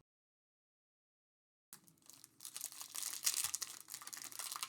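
The sound cuts out to dead silence for a little under two seconds, then crinkling and rustling of foil trading-card pack wrappers being handled and torn open, growing louder.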